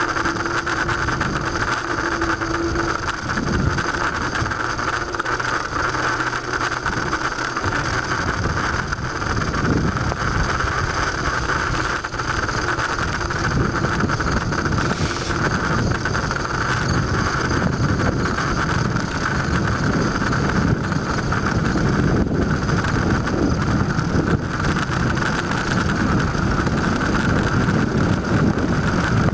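Steady wind rush over a bicycle-mounted or handheld microphone while riding, with road and bike noise beneath it. A low rumble grows heavier about halfway through.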